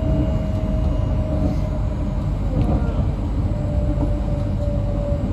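Inside a passenger train carriage while running: a steady low rumble of wheels on track, with a steady whine that falls slightly in pitch.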